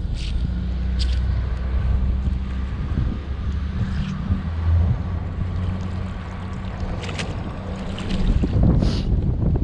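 Wind buffeting the microphone with a loud, uneven low rumble. A few short sharp ticks are scattered through it.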